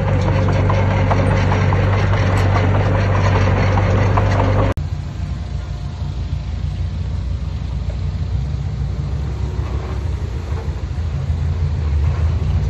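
Heavy diesel engines of earthmoving machinery running steadily. About five seconds in, the sound cuts off abruptly and gives way to a rougher, lower engine sound.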